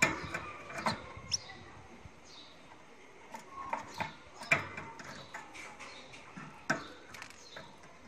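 Cage birds giving a few short high chirps amid scattered sharp clicks and knocks.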